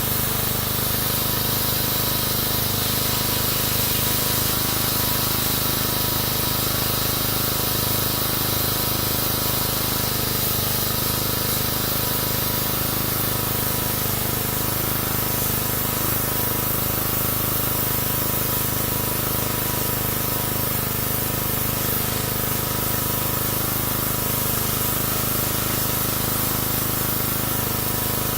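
Pressure washer spraying steadily, a continuous hiss of water jet over the steady hum of its pump motor.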